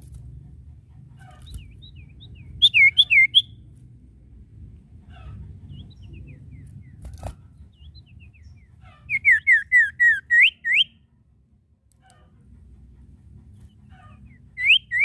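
A sirtu songbird singing in loud phrases of quick, clear whistled notes, each note sliding up or down. A short run of about five notes comes near the start and a longer run of about nine in the middle, with faint chirps and a low hum in the gaps, and another run begins at the very end.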